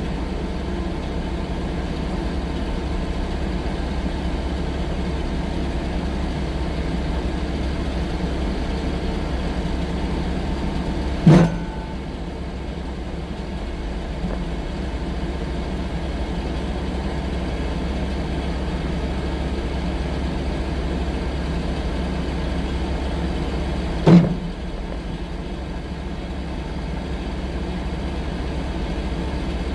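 Diesel engine of a 6-ton compact track loader (skid steer) running steadily, with two sharp loud knocks about 13 seconds apart.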